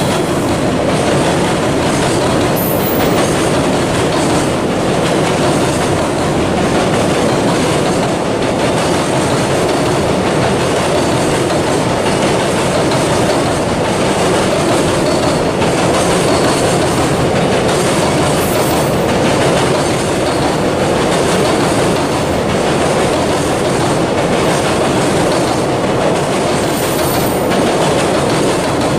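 Long freight train rolling past close by, its wagon wheels clattering steadily over the rail joints, with a few brief high wheel squeals.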